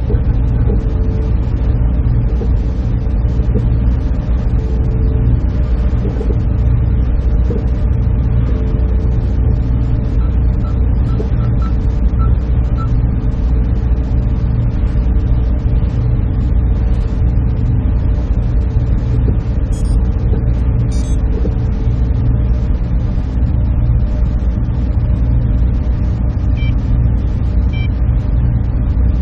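Server room ambience: the steady, unbroken low hum and whir of server machines and their cooling fans, with a steady tone running through it and a couple of faint clicks about two-thirds of the way in.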